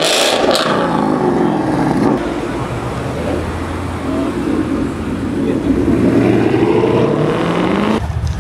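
Car engine revving, its pitch dropping after a sharp loud start and then climbing again over several seconds; it cuts off suddenly near the end.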